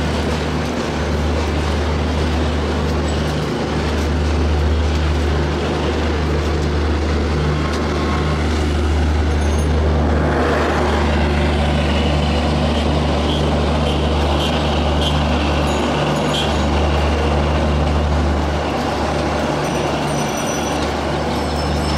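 Passenger train running by: a steady low diesel engine drone under broad rolling noise, swelling about ten seconds in, with faint thin high squeals through the second half.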